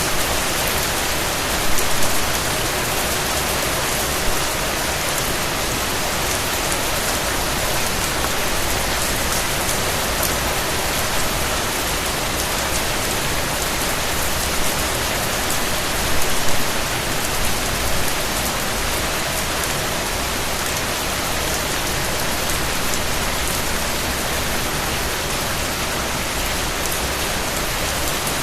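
Steady rain falling: a dense, even hiss of many drops, with a few brief louder bumps about two seconds in and again around sixteen seconds.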